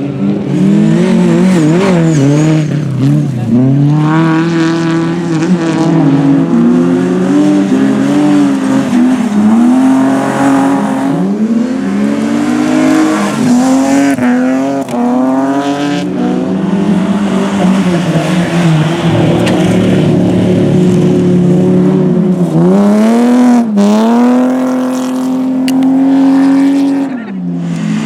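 Rally car engine revved hard, its pitch climbing and then dropping sharply over and over as it shifts gears and lifts off, with a sharp crack about three-quarters of the way through.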